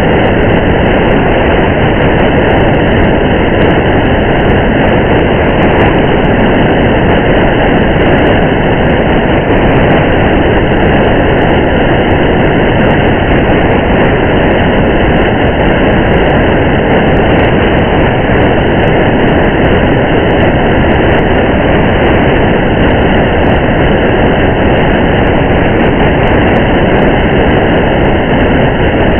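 Loud, steady rain-and-driving ambience: a constant rush of rain mixed with low road rumble, with faint scattered drop ticks and no change throughout.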